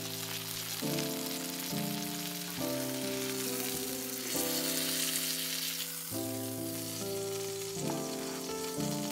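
Food sizzling in a hot frying pan, under background music of held chords that change about once a second.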